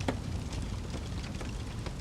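Wood fire in a fireplace crackling over a steady low rumble of flames, with a sharper pop right at the start.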